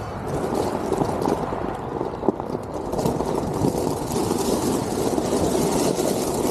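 Steady rumbling noise from riding a Onewheel GT along a dirt trail: wind on the microphone and the board's tyre rolling over the ground, with one sharp knock a little after two seconds.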